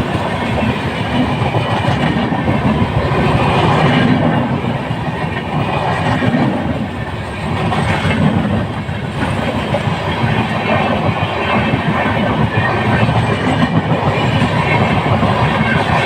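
Train running past, a loud continuous rumble of wheels on the rails that swells and eases every couple of seconds.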